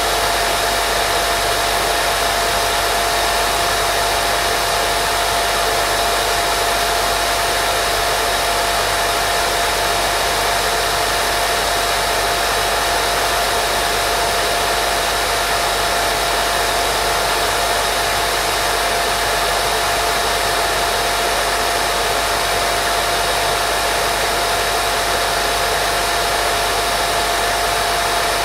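Steady white noise for baby sleep: an unchanging hiss, with a faint steady tone running through it.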